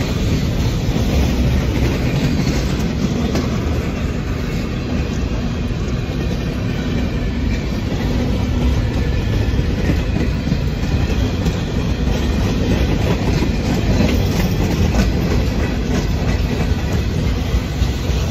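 Freight cars of a passing freight train rolling by close up: a steady low rumble of steel wheels on the rails, with clicks as the wheels cross rail joints.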